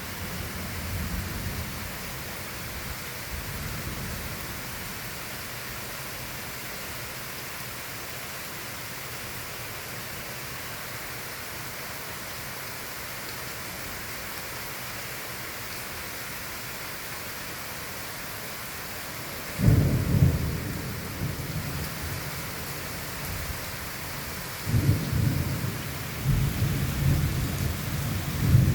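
Thunderstorm: steady rain hiss with low rolling thunder at the start. About two-thirds of the way through, a sudden loud clap of thunder rumbles out over a few seconds, and more thunder rumbles near the end.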